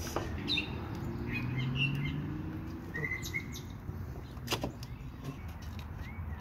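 Birds chirping in short, separate calls, with the low hum of a vehicle passing in the first couple of seconds and a single sharp click about four and a half seconds in.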